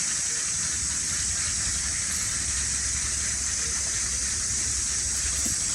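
Steady outdoor ambience: a constant high-pitched hiss over a low rumble, with no distinct calls or knocks.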